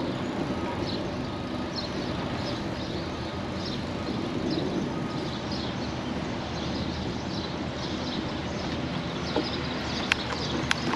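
Steady rumble and wind noise of a touring bicycle riding along a trail, with birds chirping throughout. Two sharp clicks near the end.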